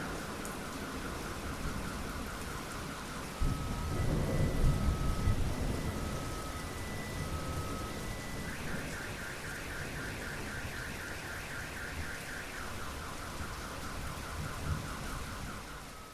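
Steady rain with a roll of thunder that breaks in about three and a half seconds in and rumbles away over several seconds. Through the rain, an alarm beeps in a repeating pattern that switches rhythm every few seconds.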